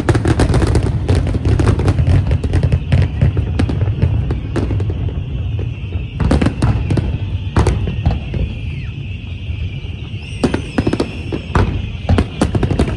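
Fireworks going off: a dense run of sharp bangs and crackles over a low rumble, with a steady high whine underneath and a few rising whistles about ten seconds in.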